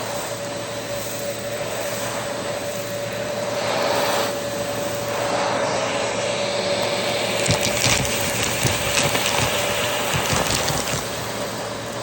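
Vacuum cleaner running with a steady motor whine and rush of air; in the second half, quick rattling clicks of debris being sucked up.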